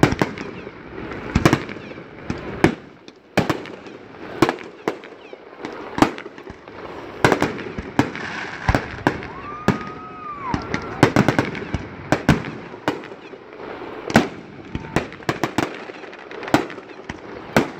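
Fireworks display: aerial shells bursting in an irregular volley of sharp bangs, sometimes several in quick succession. A brief rising-and-falling whistle comes about halfway through.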